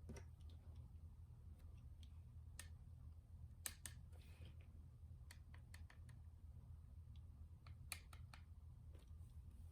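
Faint, irregular clicks and small taps of hand work on a Nintendo Switch during a fan replacement, over a steady low hum.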